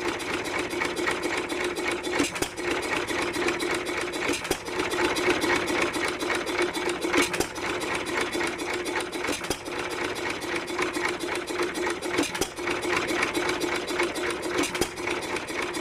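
Economy 3 1/2 hp stationary engine running with a steady rapid clatter and a louder knock every two to three seconds, its freshly repaired big-end bearing holding up on its first run.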